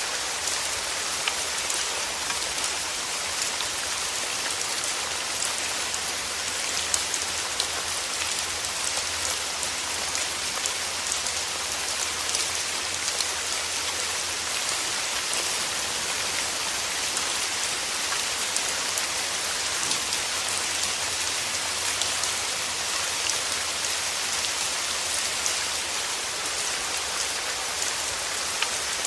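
Steady rain falling on a surface, an even hiss with many small drop ticks and the odd louder drop.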